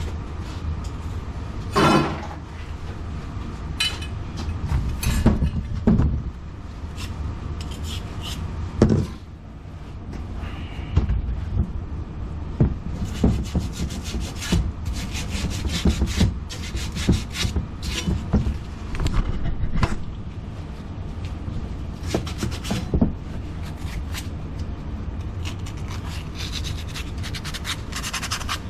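Plumbing installation work noise: a run of irregular knocks, clicks and scraping as tools and fittings are handled, over a steady low hum.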